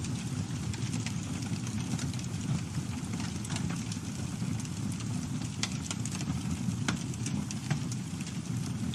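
Campfire burning: a steady low rumble of flames with scattered sharp crackles and pops from the wood, two of them louder a little past the middle.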